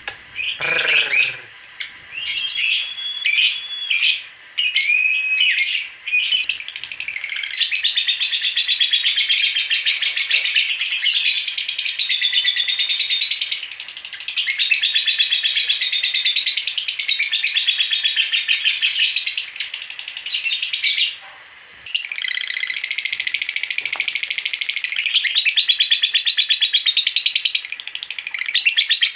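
Female lovebird singing its long, rapid chattering song (ngekek). It gives a few separate chirps at first, then chatters continuously from about seven seconds in, breaking off briefly twice.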